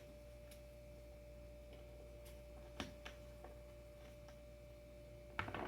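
Quiet room tone with a faint steady hum, and a few soft clicks and taps from handling skateboard trucks and adapter parts.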